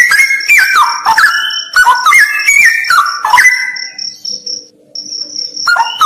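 Straw-headed bulbul (cucak rawa) singing rich, loud phrases of falling whistled notes. It falls silent for about two seconds past the middle, then starts again near the end. A steady high tone runs underneath.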